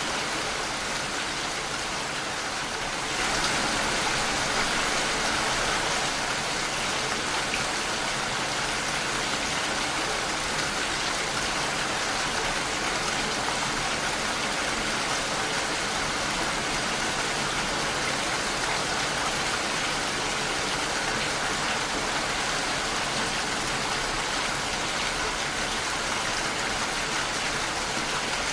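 Steady rain pattering against window glass, an even hiss that steps up slightly in loudness about three seconds in.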